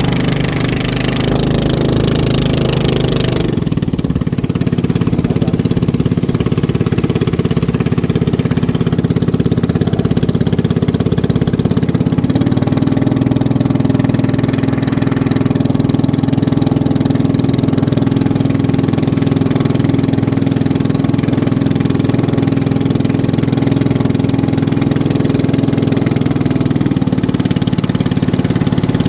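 Racing boat engine running steadily, its tone shifting slightly about four seconds in and again about twelve seconds in.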